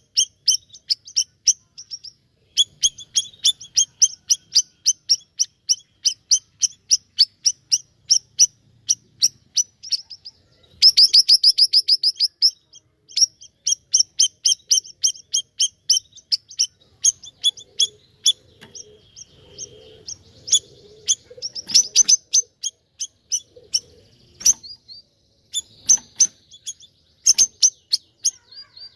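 A siri-siri songbird singing persistently: a long run of sharp, high chirps several times a second, with a brief faster trill about eleven seconds in.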